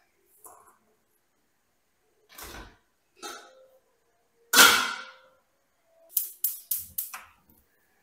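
Kitchen handling sounds: separate knocks and clatters of objects being picked up and set down, the loudest a little past halfway, then four quick sharp taps near the end.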